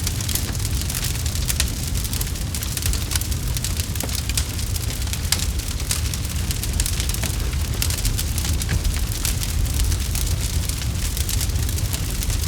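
Campfire burning steadily with a low rumble, dense small crackles and a few sharper pops.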